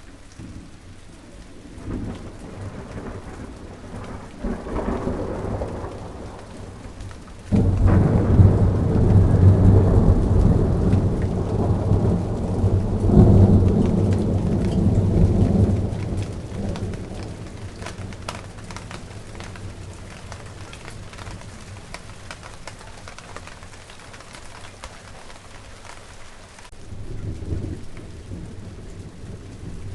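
Steady rain falling on a garden, with rolls of thunder: a sudden loud low rumble about a quarter of the way in that swells again and fades over several seconds, and fainter rumbles before it and near the end.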